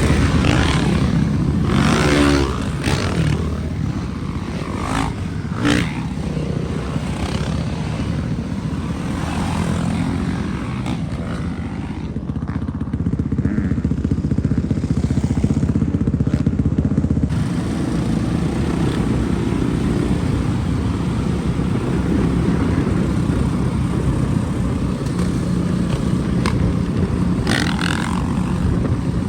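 Dirt bike engine running under way, with a short rising rev about two seconds in.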